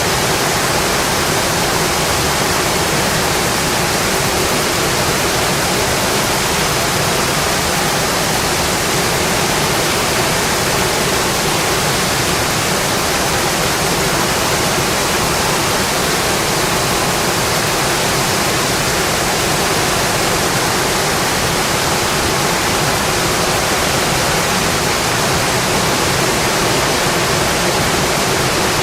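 Steady heavy rainfall, an even, unbroken hiss with no single drops standing out.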